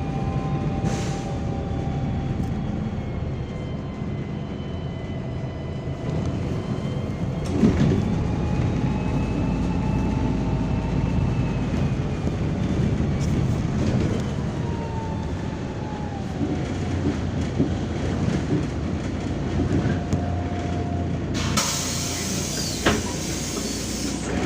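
MAZ-203 city bus heard from inside while driving: steady engine and drivetrain noise, with thin whines that glide up and down as it speeds up and slows. Near the end comes a loud hiss of compressed air lasting about two and a half seconds.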